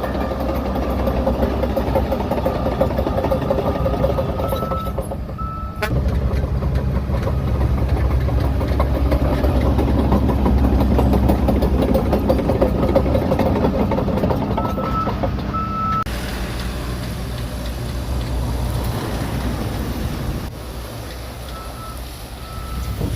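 Shantui DH17C3 bulldozer's diesel engine running steadily with track clatter, and its reversing alarm beeping in short runs three times.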